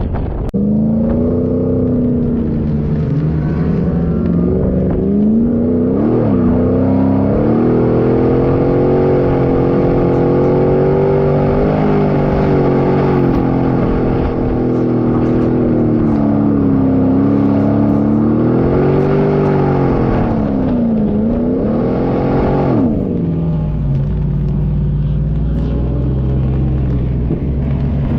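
Off-road 4x4's engine running under changing throttle, its pitch rising and falling again and again as it drives through the desert. About 23 seconds in the revs drop and it settles to a steady low note.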